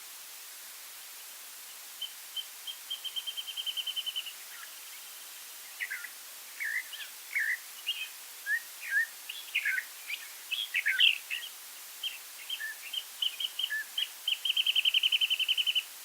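Birdsong: a run of high notes that speeds up into a rapid trill, then a jumble of varied chirps and short whistles, then another speeding run ending in a trill near the end.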